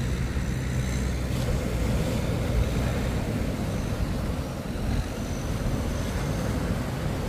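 A low steady engine hum fades out about three seconds in, leaving wind buffeting the microphone and breaking surf.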